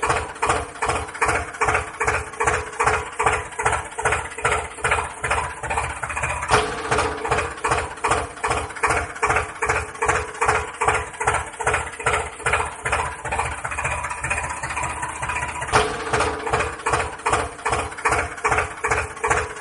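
Tractor engine running at idle with an even, rhythmic chug of about two to three beats a second.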